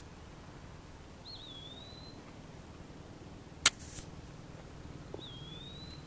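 A bird whistling twice, a few seconds apart: each phrase is a quick wavering note running into a longer, slightly rising whistle. A single sharp click, the loudest sound, falls between the two.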